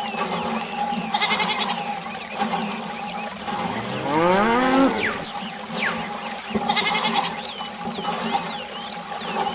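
A cow mooing once, a long call that rises and then falls, about four seconds in, among high chirps.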